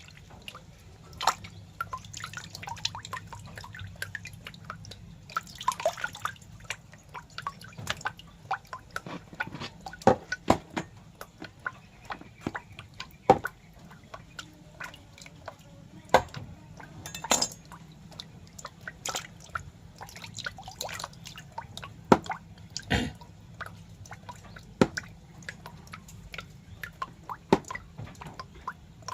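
Irregular wet clicks and drips, sharp and close, a few each second, over a low steady hum.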